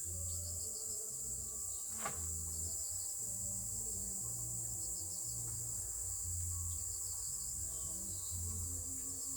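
Crickets chirping steadily over soft background music with low held notes, with a single faint click about two seconds in.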